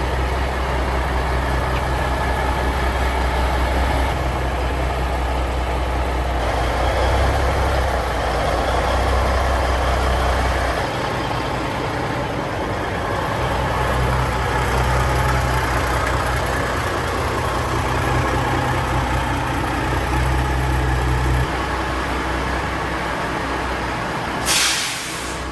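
Heavy diesel truck engine running steadily with a deep rumble, in several cut-together stretches. A short burst of air hiss, like an air-brake release, comes near the end.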